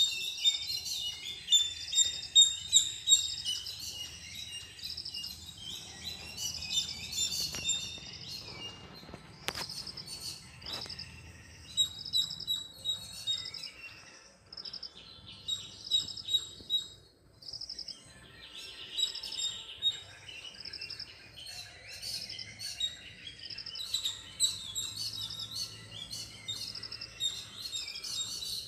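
Small birds chirping, many short high notes overlapping in a busy twittering chorus that runs on throughout, with brief lulls around the middle.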